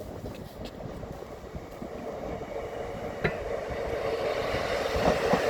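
A train approaching along the track, its rumble growing steadily louder, with one sharp click about three seconds in.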